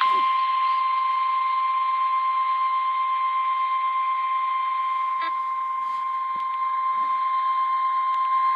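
NOAA Weather Radio 1050 Hz warning alert tone: one loud, steady tone held without a break over light radio hiss, signalling that a warning broadcast, here a severe thunderstorm warning, is about to follow.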